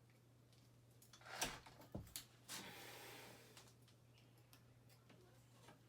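Faint handling sounds from work on a dirt bike. A sharp click about a second and a half in and two more clicks about half a second later, then a short rustle, over a steady low hum.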